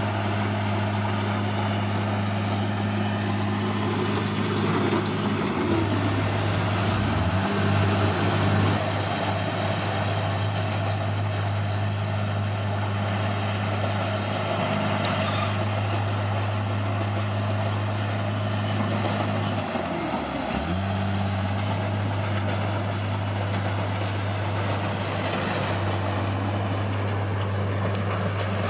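Caterpillar D6R bulldozer's diesel engine running steadily at working speed. The engine note dips briefly twice, about six seconds in and again about twenty seconds in, then picks back up, as the engine takes on load.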